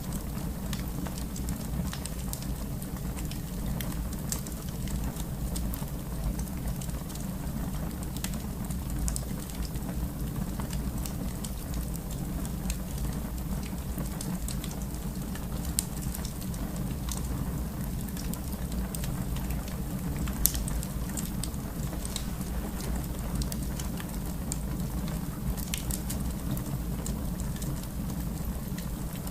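Wood fire burning in a fireplace: a steady low rumble of flame with scattered crackles throughout and a sharper pop about twenty seconds in.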